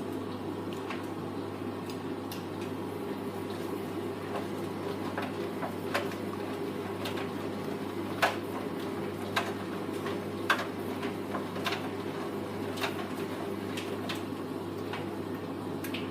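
Hoover Vision Tech VT 914 D22X front-loading washing machine running a wash: a steady motor hum with water sloshing and scattered clicks and knocks, dying away right at the end as the drum stops.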